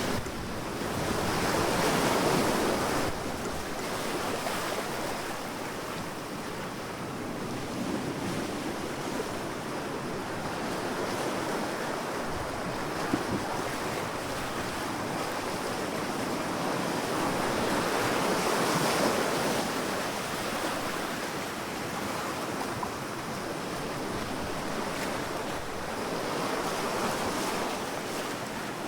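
Sea waves breaking and washing onto a sandy beach: a steady rush of surf that swells louder three times, about two seconds in, in the middle and near the end.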